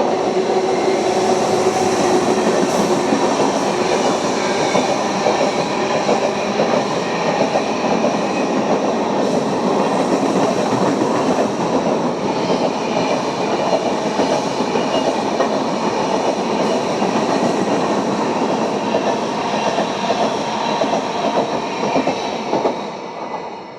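An Indian Railways express train rushing past at speed, its coach wheels clattering over the rail joints in a dense, continuous rumble. The sound dies away just before the end.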